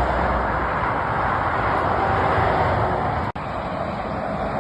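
Steady motorway traffic noise of lorries and cars passing below, with a deep rumble from a heavy truck over the first three seconds. The sound cuts out for an instant about three seconds in, then the traffic noise carries on.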